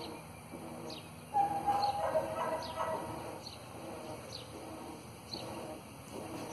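A bird chirping: a short, high, falling chirp repeated about once a second, under low talking.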